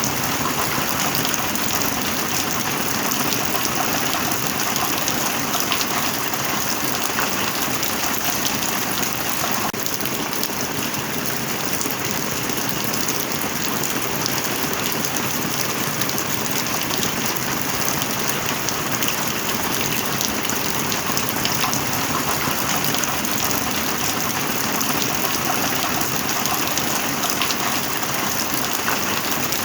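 Steady rain falling, a dense even hiss of countless drops with fine scattered ticks of individual drops striking a surface.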